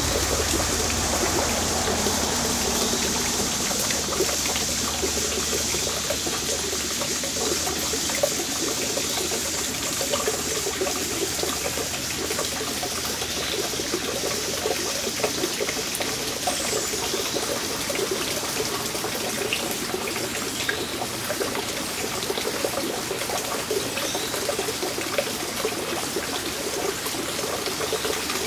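Steady trickling, pouring water, with a few faint bird chirps now and then.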